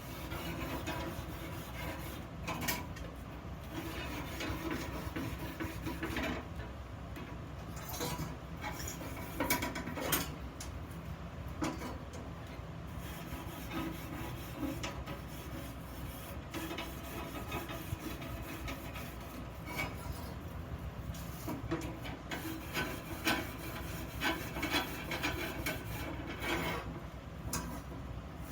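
Hand rasping and rubbing on iron, irregular scraping strokes, over a steady low hum.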